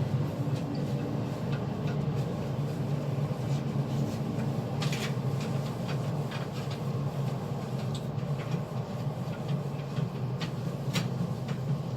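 Steady low mechanical hum with scattered light clicks and knocks.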